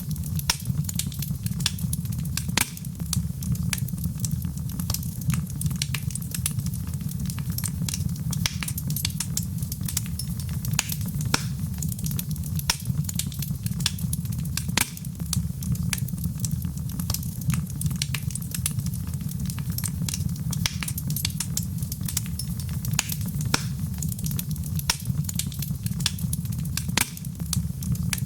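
Fireplace fire crackling, with frequent sharp, irregular pops over a steady low rumble of the flames.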